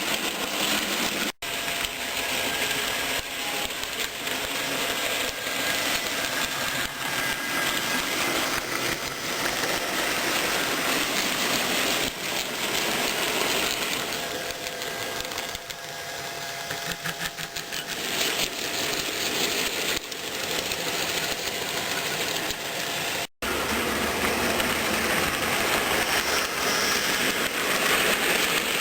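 HO-scale model train, a BB 67554 diesel locomotive model with covered wagons and refrigerator vans, running along the layout track with a steady mechanical rolling noise. The sound cuts out briefly twice, about a second and a half in and again near 23 seconds.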